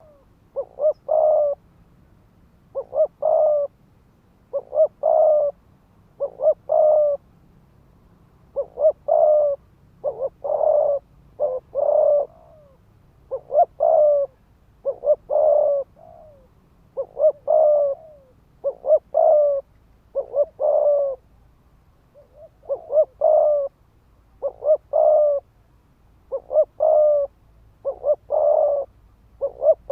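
Spotted dove cooing rapidly over and over in the fast, aggressive cooing of a ground decoy bird, meant to stir wild doves to fight. Each phrase has two or three quick notes and ends on a longer note, about one phrase every two seconds.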